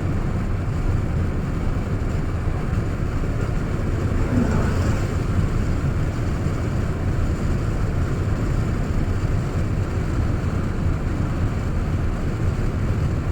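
Steady low rumble and road noise of a moving car, unbroken and even in level.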